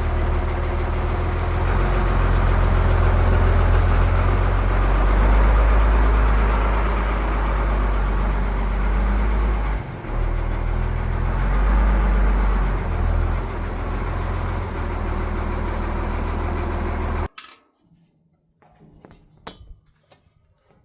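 An engine or motor running steadily, with a strong low hum. It cuts off abruptly near the end, leaving faint clicks and small handling knocks.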